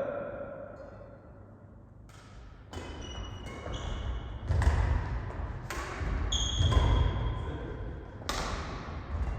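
Badminton rally on an indoor court: a string of sharp racket-on-shuttlecock hits about once a second, with court shoes squeaking and heavy footfalls on the floor between them.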